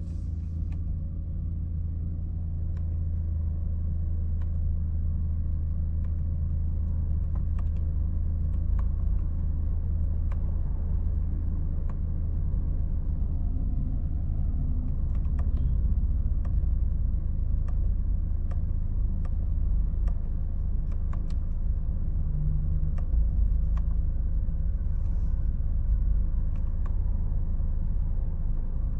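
2025 Toyota Corolla's engine idling, heard from inside the cabin as a steady low hum, with a few faint clicks scattered through.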